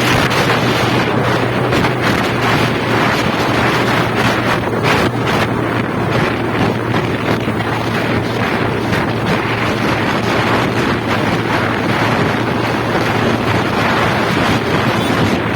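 Wind buffeting the microphone on a moving motorcycle, over the steady low hum of its engine at cruising speed.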